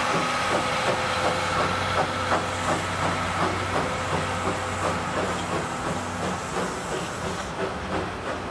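Railway passenger coaches rolling past, their wheels clicking over the rail joints two to three times a second over a steady rolling hiss and hum. The sound slowly fades as the last car moves away.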